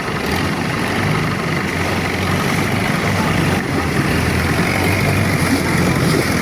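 Boat engine running steadily with a low hum, over a haze of wind and water noise.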